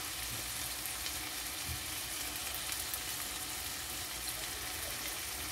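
Orek tempe, fried tempeh pieces with green chilies in sweet soy sauce, sizzling steadily in a wok, with a light crackle throughout.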